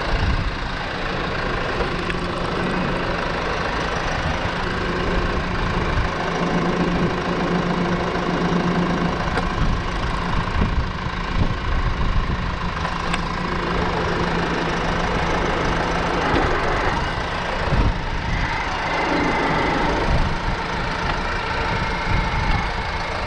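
New Holland T5 tractor's diesel engine running steadily under load while it pulls the last fence pole out. The pitch shifts a few seconds past the middle, with a brief rise and fall near the end.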